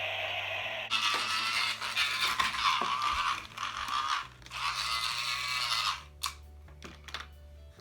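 A toy car park's electronic sound effects playing through its small, tinny speaker after a button press, in several stretches that stop about six seconds in. A few short plastic clicks follow.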